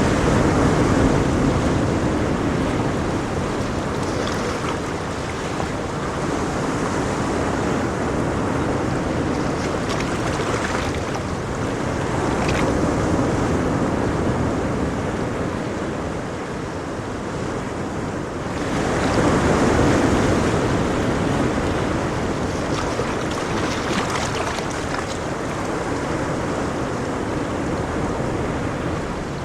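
Ocean waves breaking and washing on a shore, a continuous rush that swells and ebbs, with the largest surge about two-thirds of the way through.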